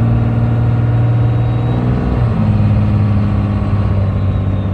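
12-valve Cummins inline-six diesel with compound turbos running under way while towing a heavy trailer. Its note shifts about two seconds in, and a faint high turbo whistle sits above it.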